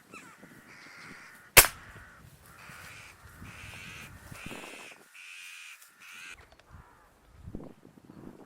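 One sharp crack of an air rifle shot about one and a half seconds in, the loudest sound, aimed at finishing off a wounded crow. Then crows caw repeatedly, about six calls in a steady run, stopping a little past six seconds.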